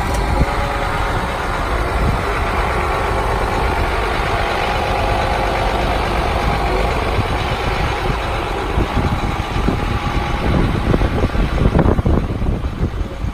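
Truck engine of a 2003 International 7400 bucket truck running steadily with the PTO engaged to drive the boom hydraulics. Wind buffets the microphone, more unevenly near the end.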